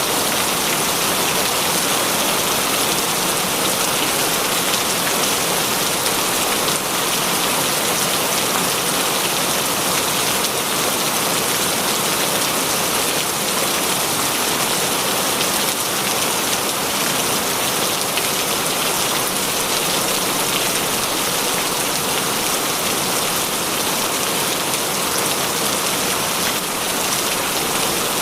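Heavy rain falling steadily on a surface, a dense, even hiss of many raindrops that does not let up.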